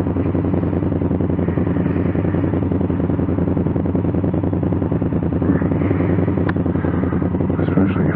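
Honda Africa Twin CRF1000L's 998 cc parallel-twin engine running steadily at low revs, with one short click about six and a half seconds in.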